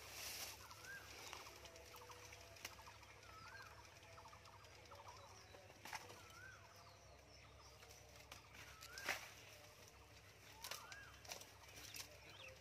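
Quiet outdoor background with a bird calling over and over, a short rising-and-falling note every second or two. Now and then dry bamboo stalks and leaf litter give a sharp crackle or snap as they are handled, the loudest about nine seconds in.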